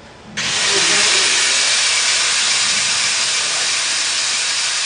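Welding arc struck about half a second in, then a steady, loud sizzling hiss as the bead is run.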